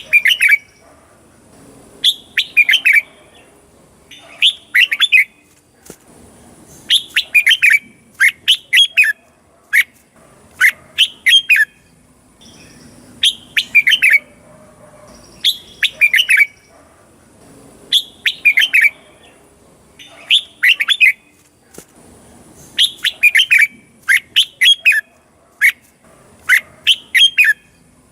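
Red-whiskered bulbul singing: short phrases of several quick, bright whistled notes, each phrase falling in pitch, repeated about every two seconds.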